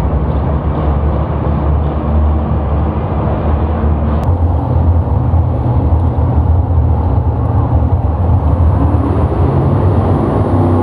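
Heavy pulling-vehicle engine running hard and steady under load, as at a sled pull.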